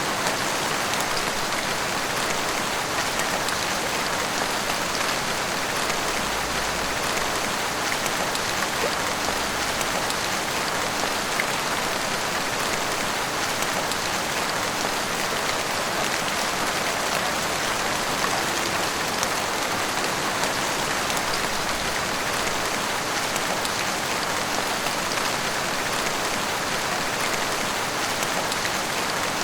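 Heavy rain pouring steadily, a dense even hiss of drops hitting surfaces with fine scattered patters.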